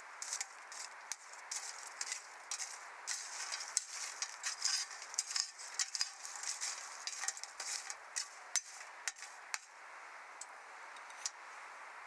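Wood fire burning in a Snow Peak Takibidai L fire pit, crackling and snapping in a dense run of sharp pops over a steady hiss, thinning out near the end.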